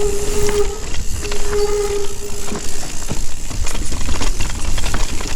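Mountain bike descending rough dirt singletrack: tyres crunching, the bike rattling over bumps, and a heavy wind rumble on the helmet-camera microphone. Twice in the first three seconds a steady buzzing tone sounds for about a second.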